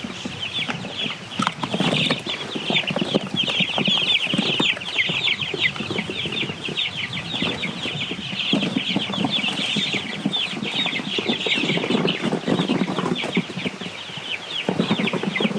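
A flock of week-old Cornish Cross chicks peeping continuously, a dense chorus of short falling chirps, over some low rustling.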